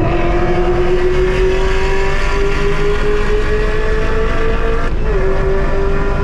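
Supercharged 6.2-litre LT4 V8 of a 2018 Chevrolet Camaro ZL1 1LE pulling hard under acceleration, heard from inside the cabin. Its pitch climbs steadily, with a quick upshift right at the start and another about five seconds in.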